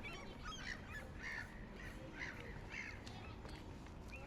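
Crows cawing, a run of harsh calls repeated several times in a row, over a low steady background rumble.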